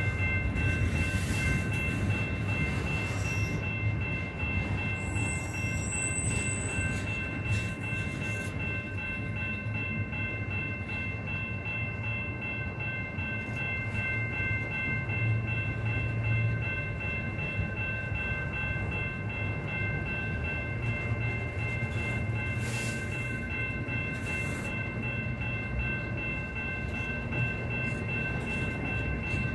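Long freight train rolling past: a steady rumble of cars on the rails, with a constant high-pitched ringing of several steady tones held over it.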